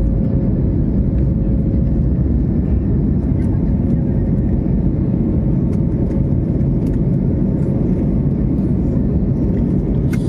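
Steady low roar of an airliner's jet engines and rushing air, heard from inside the passenger cabin during the climb after takeoff.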